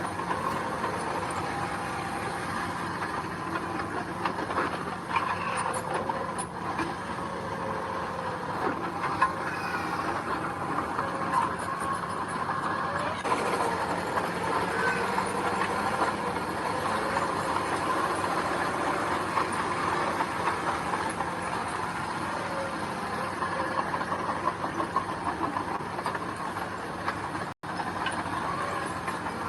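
Heavy diesel earthmoving machinery running steadily, with one brief dropout near the end.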